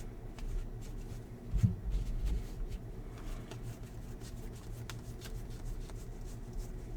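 Baseball trading cards being handled and flipped through by hand: soft, scattered card-on-card rustles and light clicks over a faint steady low hum.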